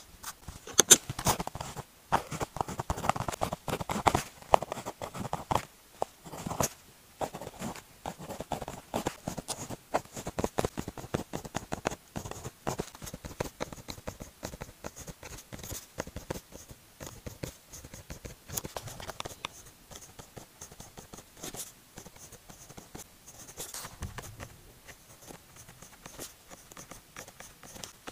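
Pilot pen writing on paper: a quick run of short scratching strokes and light taps of the nib, denser and louder in the first half and softer later on.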